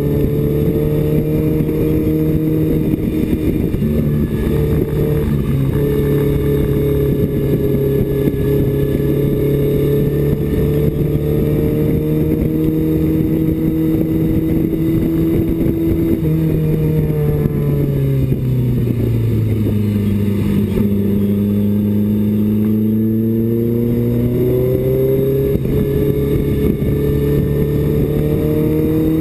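BMW 2002 race car's four-cylinder engine heard from inside the cabin, held at steady high revs, then dropping in pitch about two-thirds of the way through as the car slows, and climbing again toward the end with a gear change near the end.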